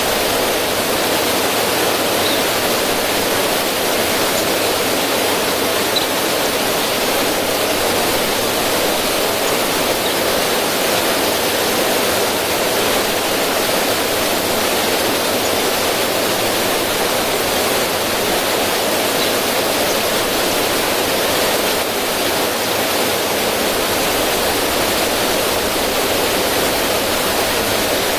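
River water running over rocks and splashing down a small cascade, a steady, even rushing.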